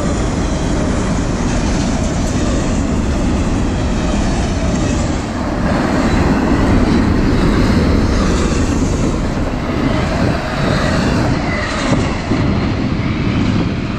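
Double-stack intermodal freight cars rolling past on the rails: a steady noise of steel wheels on track and rattling cars, a little louder from about five seconds in.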